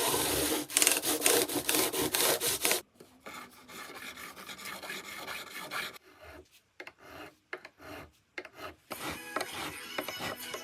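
Repeated abrasive rubbing strokes, like filing or sanding on wood: loud and dense for the first three seconds, then quieter and broken up. Musical tones begin about a second and a half before the end.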